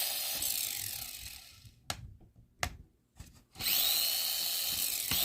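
Micro RC car's tiny electric motor and gears whining under throttle in high-speed mode. It winds down over about two seconds, two short clicks follow in a quiet gap, and then it spins up again with a rising whine about three and a half seconds in and holds a steady high whine.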